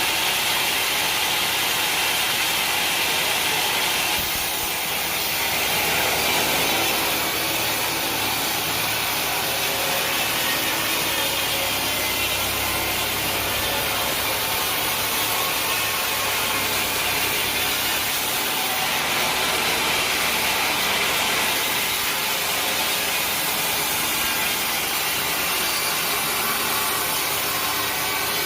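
Sawmill saw running steadily and cutting through a mahogany log, a continuous rasping of blade on wood over the drone of the mill's motor.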